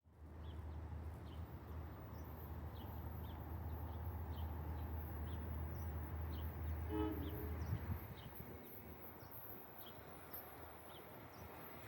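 NJ Transit train's horn giving a brief toot about seven seconds in, over a steady low rumble that falls away about a second later. Small high chirps repeat through it.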